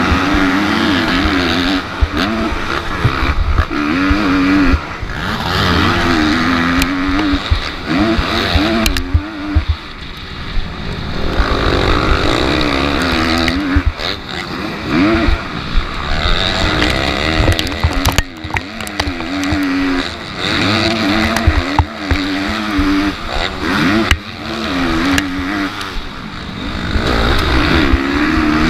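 Motocross dirt bike engine revving up and dropping back over and over as it accelerates and shifts around the track, over a steady rushing noise, with occasional sharp knocks.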